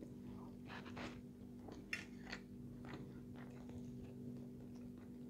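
Soft, faint chewing and small mouth clicks of someone eating a forkful of salmon, over a steady low hum.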